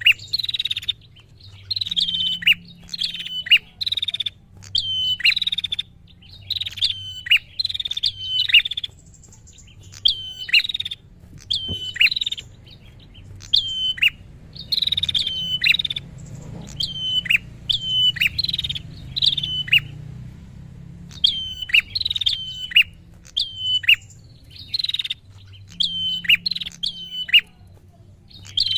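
Prinia (prenjak) calling rapidly and persistently: sharp, high notes that drop in pitch, repeated one to three a second in runs broken by short pauses.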